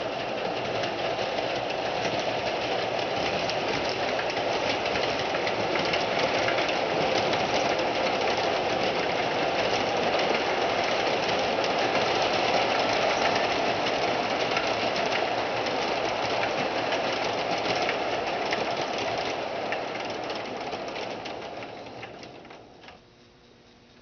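Model train running on the layout: a Williams FP45 O-gauge locomotive's motor and the wheels of a long string of cars give a steady rolling clatter on the track. The sound dies away near the end.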